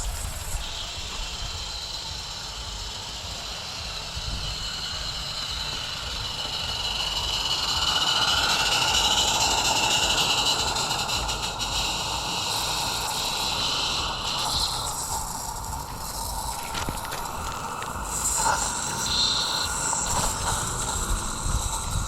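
Live steam Roundhouse Lady Anne garden locomotive running on its track, a steady hiss of steam with the clatter of small wheels on rail, swelling louder for a few seconds near the middle.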